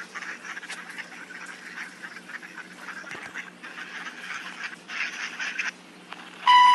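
Birds calling with a busy chatter of calls, then a much louder, steady, piercing call near the end.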